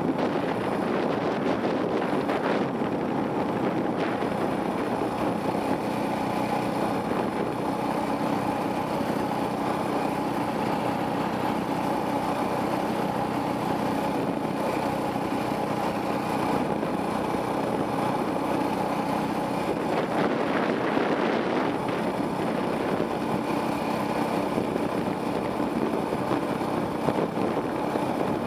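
Off-road dirt bike engine running at a fairly steady pitch, heard from the rider's helmet camera, with a few short knocks.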